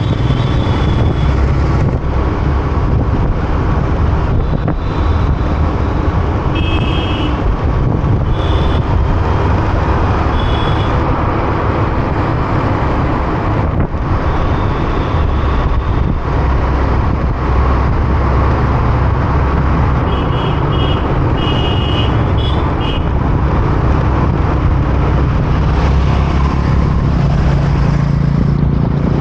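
Motorcycle riding through busy city traffic: a steady rumble of engine, tyres and wind, with short vehicle horn toots a few seconds in and again about two thirds of the way through.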